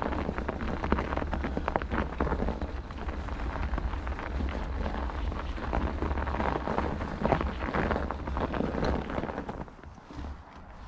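Bicycle tyres rolling over a snowy, gritty forest track, giving a dense crackle, with wind rumbling on the microphone. It gets quieter about a second before the end.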